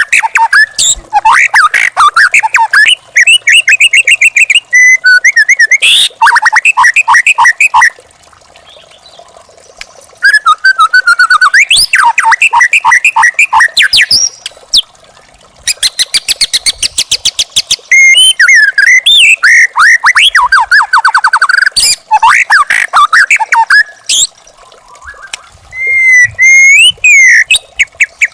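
White-rumped shama (murai batu) singing loud phrases of rapid repeated notes and fast trills, broken by short pauses.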